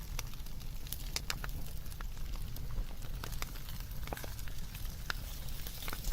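Wood fire burning, with irregular sharp crackles and pops from the burning wood over a low steady rumble.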